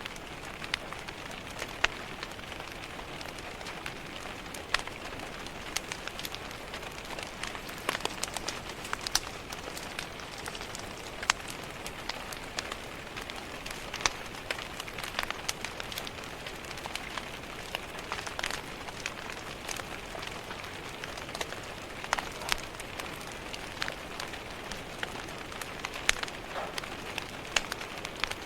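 Steady rain tapping on a window, mixed with the irregular pops and crackles of a wood fire in a fireplace.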